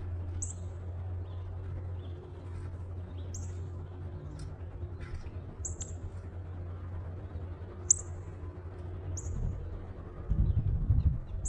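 A bird's sharp, high chip calls, about five of them a second or two apart, over a steady low hum; a short stretch of low rumbling near the end.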